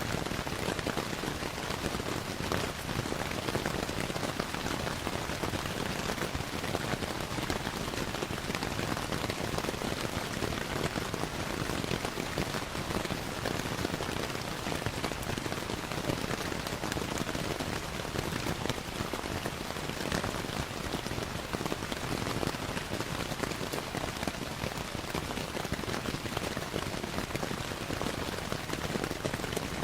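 Steady rain falling, mixed with the crackle of a wood fire in a fireplace, heard as scattered small pops through the rain.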